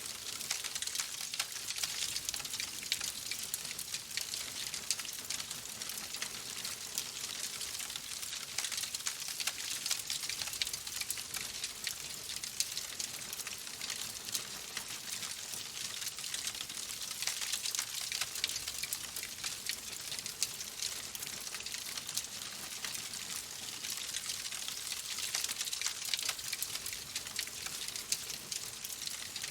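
Wood fire crackling in a fireplace: a steady hiss with a dense run of small, quick crackles and pops.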